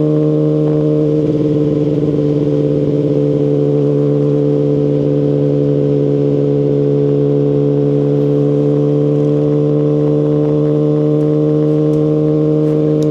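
Kawasaki Ninja ZX-10RR's inline-four engine through an Akrapovic Evolution Line carbon full exhaust system, running steadily at an unchanging engine speed.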